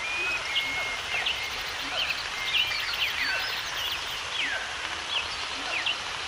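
Several wild birds chirping and whistling in short, quick notes, many sweeping downward in pitch, over a steady background hiss.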